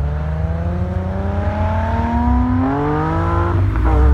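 Nissan 350Z's 3.5-litre V6 accelerating hard away, revs rising steadily, dropping with an upshift about three and a half seconds in, then climbing again.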